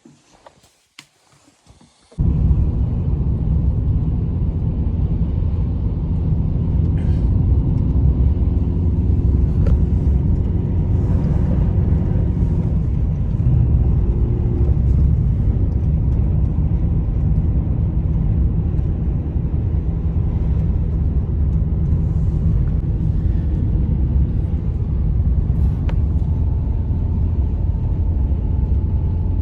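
Strong blizzard wind rumbling steadily on the microphone, starting abruptly about two seconds in after near quiet, with faint whistling tones over the low roar.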